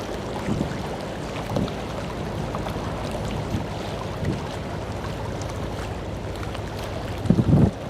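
Wind buffeting an outdoor microphone over a steady background rumble. There are low bumps every second or so and a stronger run of gusts about seven seconds in.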